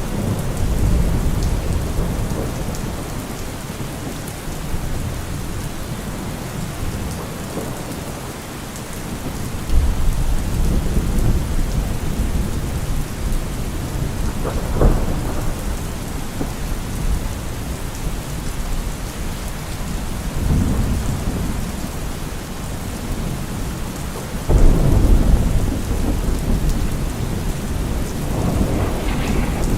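Steady rain falling, with rolling thunder rumbling low several times. A sharper clap comes about halfway through, and a louder rumble starts near the end.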